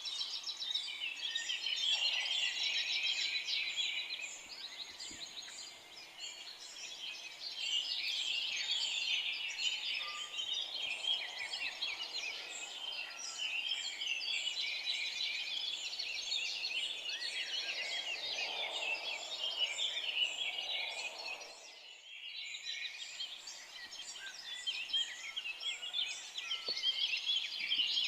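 A dense chorus of many forest songbirds singing at once, a thick mix of quick high chirps and trills. About three-quarters of the way through, the chorus briefly drops away for a moment before resuming.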